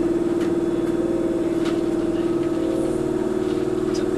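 Running noise heard from inside a Toyohashi Railway 1800 series (ex-Tokyu 7200 series) resistance-controlled electric motor car: steady motor and wheel noise with a strong hum that shifts slightly about two and a half seconds in, with a few faint clicks. The air conditioning is running.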